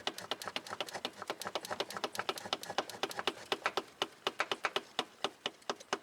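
Rapid light metal-on-metal tapping, several sharp taps a second, as the front axle's inner joint is struck to pop it out of the transmission past its retaining circlip.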